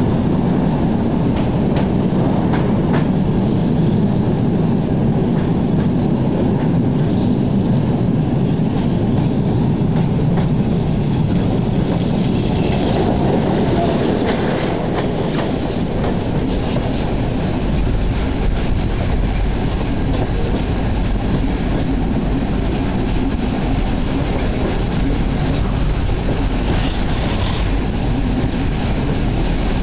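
Passenger train running at speed, heard from a carriage window: a steady rumble of wheels on the rails with scattered clicks over rail joints.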